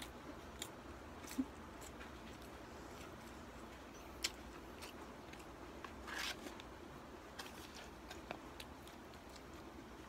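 Quiet eating sounds: scattered small mouth clicks while chewing, one sharper click about four seconds in. About six seconds in, a brief rustle as fingers pick food from a cardboard fast-food box.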